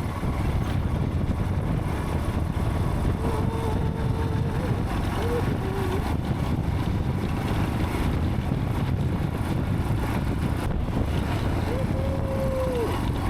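Royal Enfield Himalayan 411's single-cylinder engine running at a steady pace while riding, with wind buffeting the microphone.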